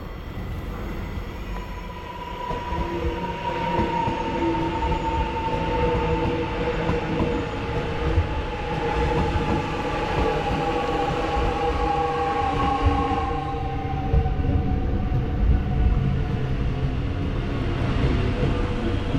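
Electric suburban train pulling in, with a rumble of wheels on rail and a motor whine that falls slowly in pitch as it slows.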